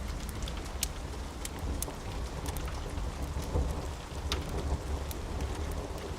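Steady rain hiss with a low rumble of distant thunder that swells about halfway through. Scattered sharp ticks and pops sound over the top.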